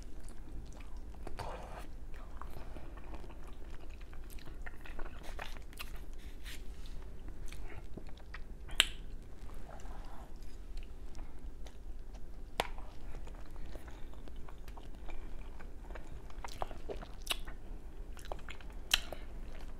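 Close-miked chewing of a mouthful of fettuccine pasta, with scattered soft clicks and smacks.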